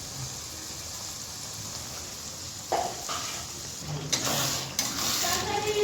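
Food sizzling in a pan while a metal spoon stirs and scrapes it, with two metal clinks about three seconds in and louder scraping near the end.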